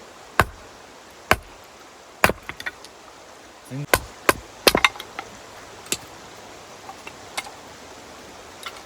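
A series of sharp knocks at uneven intervals, about a dozen strikes, bunched in the first half and thinning out later, like chopping.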